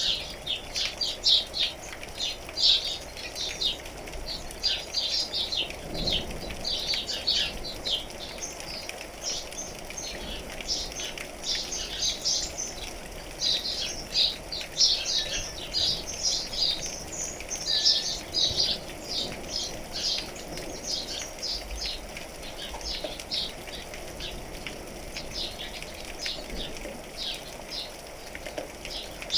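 Many small birds chirping busily without pause, with a steady hiss of rain underneath.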